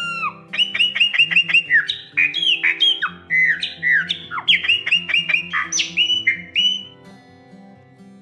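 Chopi blackbird (graúna) singing a loud, fast run of sharp, downward-slurred whistled notes, including a quick volley of repeated notes, stopping about seven seconds in. Soft background guitar music runs underneath.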